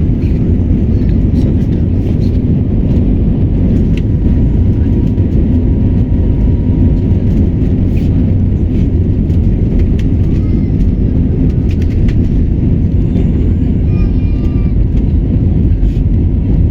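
Airbus A320 heard from inside the passenger cabin: a steady, loud low roar of the jet engines and airflow.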